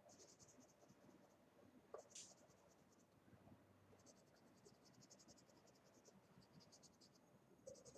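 Faint scratching of a color pencil shading on paper, in runs of quick back-and-forth strokes, with a light tap about two seconds in.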